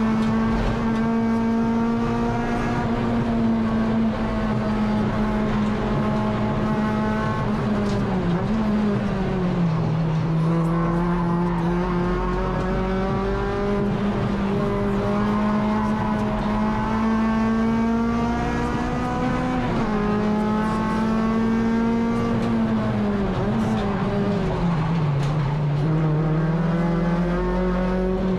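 Honda K24 four-cylinder engine of a Civic EG race car running hard at high revs, holding a steady pitch for long stretches. Its pitch drops and then climbs back several times as the driver lifts, brakes or changes gear for corners.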